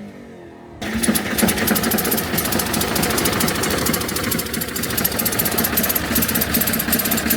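New Holland tractor engine idling with a rapid, knocking clatter just after a cold start. About a second in it becomes abruptly much louder and then stays steady.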